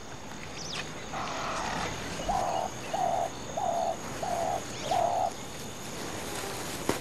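A bird repeating a short, even, hooting note about every two-thirds of a second, six times in a row, with fainter high chirps from other birds behind it. A single sharp click near the end.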